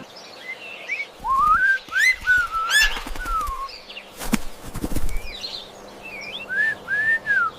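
Birds singing: a series of clear whistled notes that rise and fall, with fainter higher chirps and a few soft thuds around the middle.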